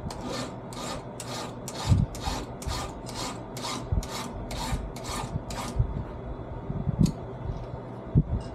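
Hand file rasping down the depth gauges (rakers) of a chainsaw chain, about fourteen even strokes at two or three a second, stopping about six seconds in. A couple of short knocks follow as the file or gauge tool is shifted.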